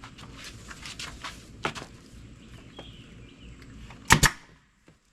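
Vinyl upholstery being handled and stretched over a seat, with scattered scrapes and light clicks. About four seconds in come two loud, sharp snaps close together: a staple gun driving staples.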